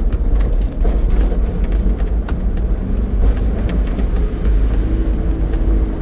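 Mitsubishi L300 4x4 van driving, a steady low rumble of engine and tyres with scattered sharp knocks and rattles.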